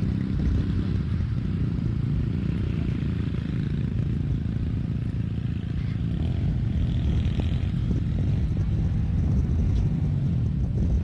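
ATV quad bike engine running at a steady speed.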